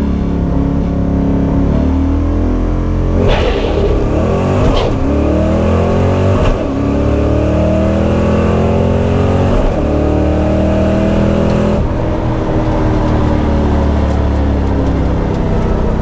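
1989 Mustang GT's 5.0 V8 at full throttle on a quarter-mile drag pass, revs climbing through the gears of its T5 manual gearbox with sharp drops at each shift. The engine backs off about twelve seconds in at the end of the run.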